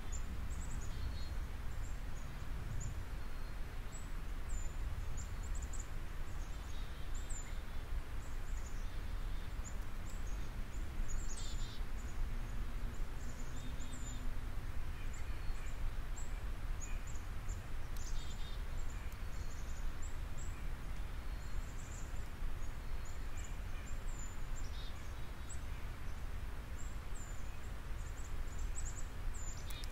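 Steady low background noise with faint, short, high-pitched chirps of small birds scattered throughout.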